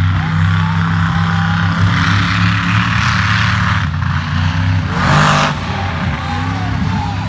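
Monster truck engine running loudly and steadily, with louder surges of noise about two seconds in and again around five seconds.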